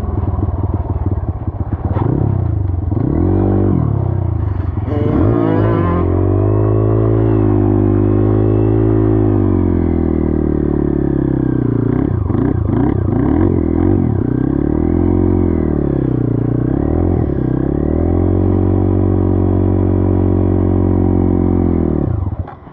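Dirt bike engine running under way, its pitch climbing and falling with the throttle several times and holding steady for stretches, then dropping off sharply near the end.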